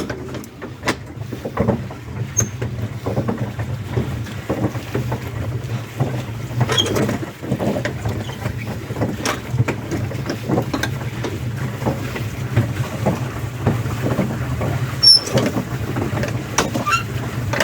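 Small boat moving on a lake: irregular splashes, knocks and clicks over a steady low rumble.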